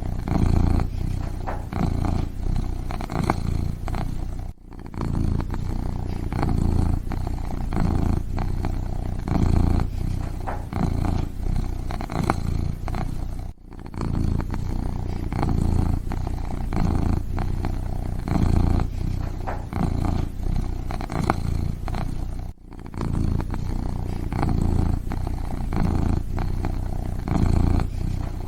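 Kitten purring close up: a steady low rumble, broken by brief pauses about every nine seconds.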